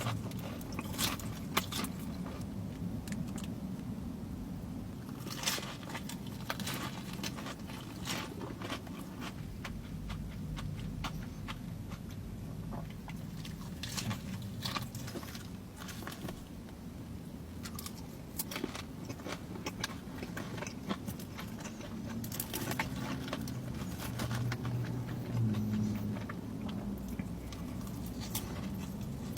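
Close-miked eating of fried chicken: bites into the crunchy crust and chewing, with sharp crunches scattered throughout over a low steady hum.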